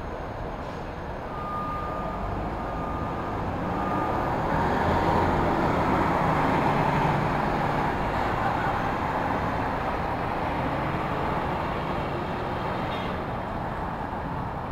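City street traffic, with a large vehicle passing so that the noise swells to its loudest in the middle and then eases off. Three short high beeps, about a second apart, sound early on.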